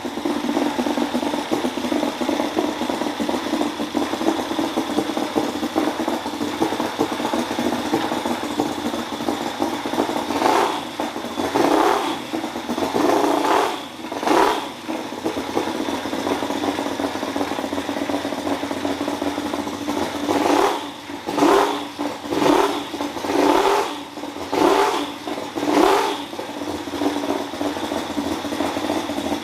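Small engine running steadily and revved in short bursts, about nine times, most of them close together in the second half.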